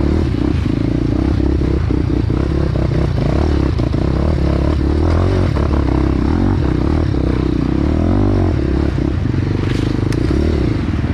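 Trail motorcycle engine running under way, its revs dipping and rising again about eight seconds in, with scraping and clattering knocks over it.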